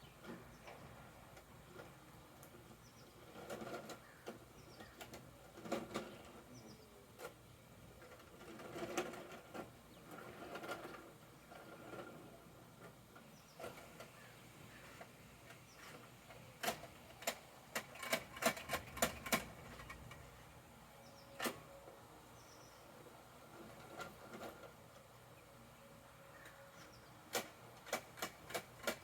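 Plastic clicking and clattering from a Bruder toy garbage truck being worked by hand. Softer scattered rattles come first, then runs of quick sharp clicks, about four or five a second, at about two-thirds through and again near the end.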